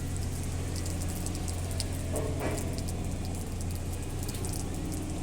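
Car wash machinery running with a steady low hum, with water spray spattering and crackling over it. A brief higher-pitched sound comes about two seconds in.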